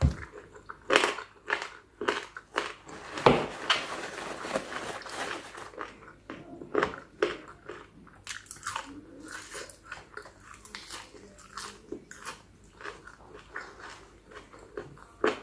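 Close-up chewing and biting of spicy chicken feet salad: irregular crunches of cartilage and wet smacking, with a denser stretch of mouth noise about three to five seconds in.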